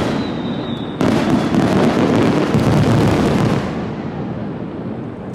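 Fireworks going off in a dense barrage of booms and crackles. A new volley starts sharply about a second in, then the sound fades away near the end.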